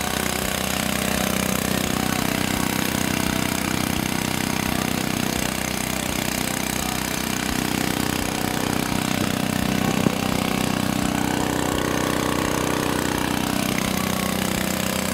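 The engine of a homemade 2-inch gold dredge running steadily and working well, with a single sharp tick about ten seconds in.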